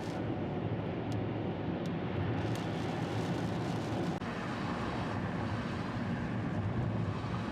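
Steady low rumble of vehicle noise, with a few faint ticks in the first few seconds.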